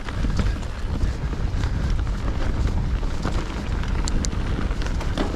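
Fezzari Delano Peak Elite mountain bike riding down a dirt singletrack, with a steady wind rumble on the GoPro Hero 9's microphone and frequent rattles and knocks from the bike and tyres on the trail. Two brief high-pitched chirps come about four seconds in.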